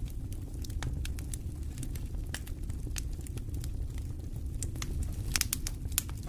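Campfire crackling: irregular sharp pops and snaps over a steady low rumble, with a louder burst of pops near the end.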